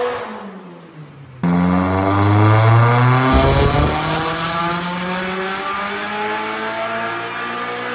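Nissan 180SX's SR20DET turbocharged four-cylinder engine: the revs fall away, then about a second and a half in the throttle snaps open and the engine revs up, its note climbing steadily.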